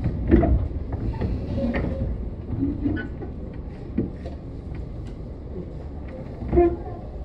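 A Tobu 10030 series electric commuter train heard from inside the car: a low running rumble with a few sharp knocks and rattles, the loudest shortly after the start and near the end.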